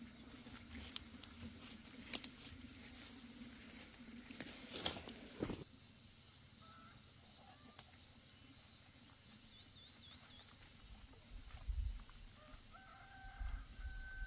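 Faint chicken sounds with scattered clicks and knocks. A steady low hum stops about halfway through, a steady high whine follows, and a drawn-out call of about two seconds comes near the end.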